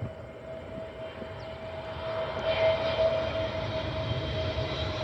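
Airbus A320 jet airliner approaching to land, its engine noise growing louder, with a steady whine.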